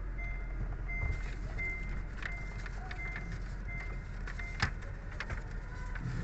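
Honda Vezel on the move, heard from inside the cabin: a steady low rumble of road and drivetrain. A short high electronic beep repeats about every 0.7 s for the first four seconds or so. A few sharp clicks come near the middle.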